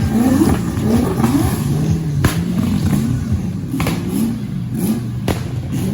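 Turbocharged V8 engine of a BMW E30 drift car revving up and down repeatedly, its pitch climbing and dropping about once a second, with a few sharp cracks between the revs.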